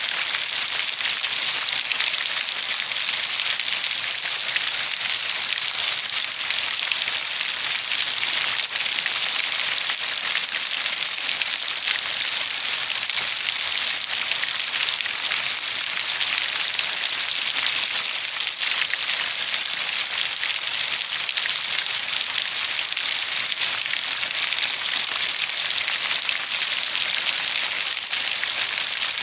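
Steady rain falling on a surface, an even hiss with the fine patter of individual drops.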